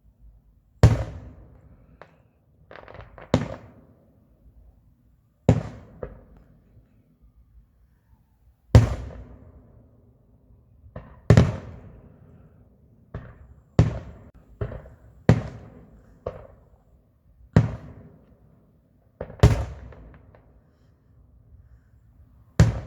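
Aerial fireworks shells bursting: a string of sharp bangs at irregular gaps of under a second to about two seconds, each trailing off in a rumbling echo.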